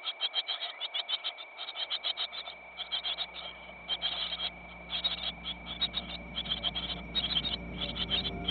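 Rapidly pulsing animal calls, many quick pulses strung into short trains with brief gaps between them, over a steady high-pitched tone.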